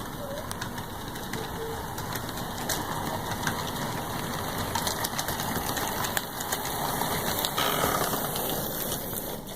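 HO scale model steam locomotive and passenger cars backing along the track: the small electric motor whirs and the wheels rattle on the rails. It has no sound system, so this is only mechanical running noise, steady and growing somewhat louder later on.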